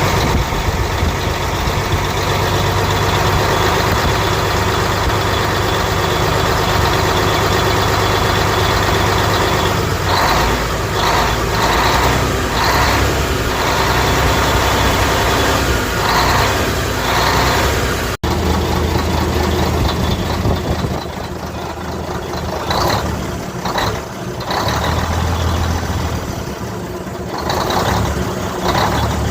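Truck's diesel engine running steadily at idle, with a brief cut about two-thirds through, after which it is a little quieter.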